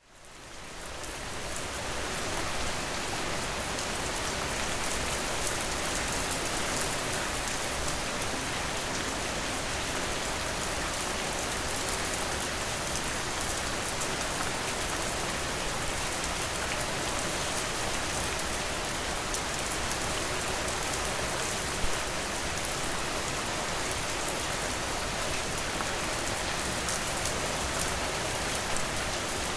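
Steady rain falling, fading in over the first couple of seconds, with scattered drop ticks and one sharper tap about 22 seconds in.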